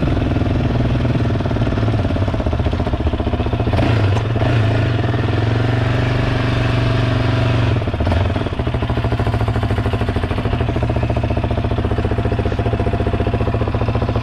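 Engine of a motor vehicle running steadily, with a brief dip about eight seconds in.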